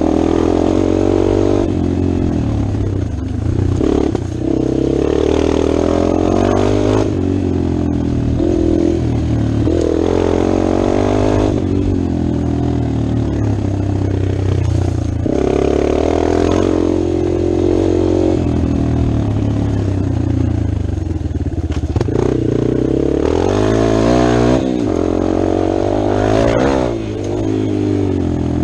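Dirt bike engine running while being ridden, its revs rising and dropping again every few seconds with the throttle.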